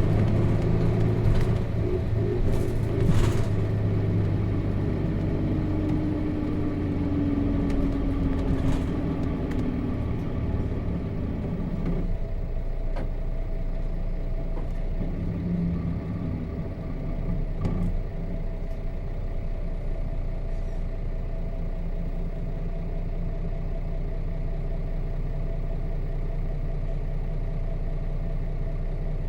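Cabin sound of a 1998 Nissan Diesel KC-RM211GSN route bus with an FE6 diesel engine. For the first twelve seconds the bus is moving, with a whine that falls slowly in pitch as it slows. It then settles into a steady engine idle.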